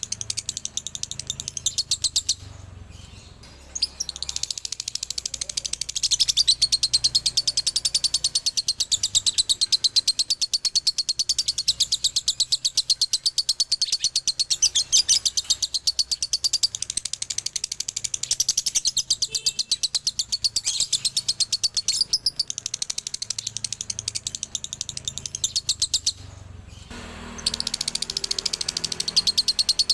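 Male lovebird singing a long, rapid, high-pitched chattering trill (the 'ngekek' doubling song). It stops briefly about two seconds in and again near the end, then resumes.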